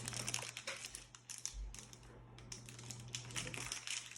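Light crinkling of plastic packaging and small clicks and taps as a toy figure is handled and unwrapped.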